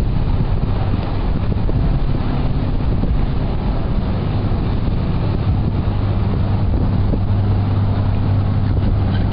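Steady low drone of a motor boat's engine, its hum growing a little stronger late on, with wind buffeting the microphone.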